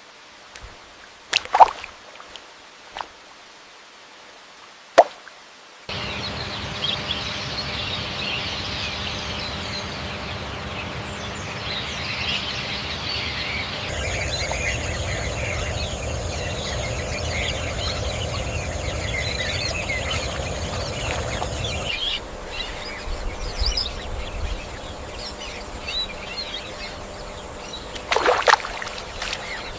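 Wild nature ambience: a few soft plops and clicks over near quiet, then an abrupt cut about six seconds in to a dense chorus of many small high chirps from birds and insects. A steady high tone joins partway through, and a louder sudden sound comes near the end.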